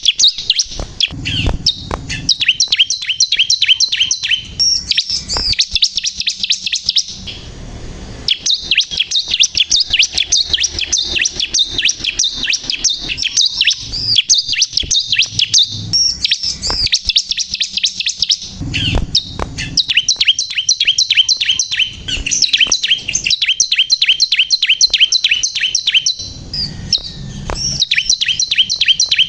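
Bar-winged prinia (ciblek kristal) singing vigorously: long runs of rapid, high, sharp chirps, many a second, with short breaks about a quarter of the way in and near the end.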